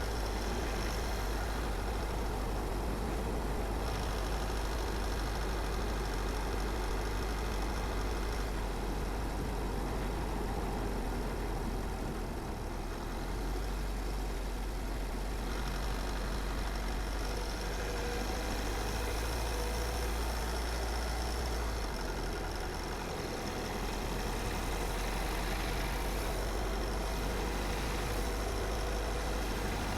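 Car driving along a road: steady engine and tyre noise with a low rumble, easing slightly twice.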